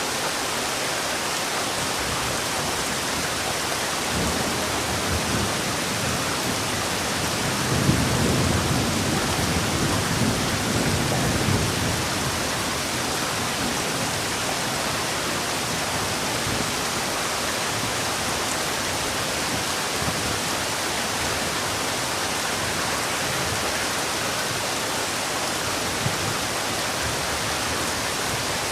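Heavy rain falling steadily. About eight seconds in, a low rumble of thunder swells for around four seconds, then dies away.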